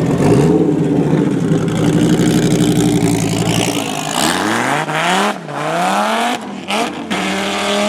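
Dodge Viper's 8.0-litre V10 running at a steady low engine speed, then revved hard several times from about four seconds in, its pitch climbing steeply and falling back with each blip.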